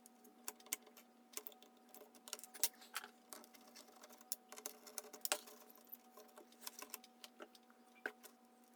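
Faint, irregular light clicks and taps of small parts being handled during bench repair work, over a weak steady hum.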